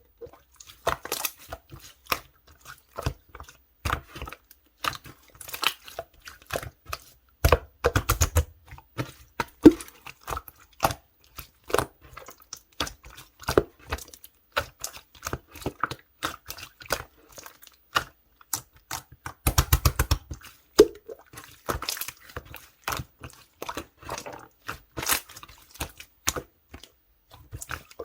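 Clear slime being pressed, poked and squished by hand, giving many sharp, irregular clicks and pops of trapped air. There are two stretches of dense rapid popping, about 8 and 20 seconds in.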